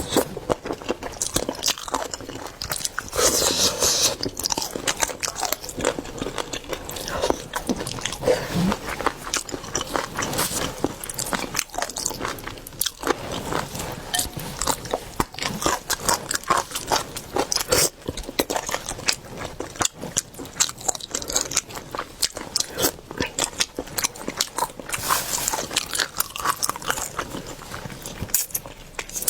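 Close-miked eating: repeated crunching bites and chewing of cooked seafood, heard as a dense run of sharp clicks and crackles.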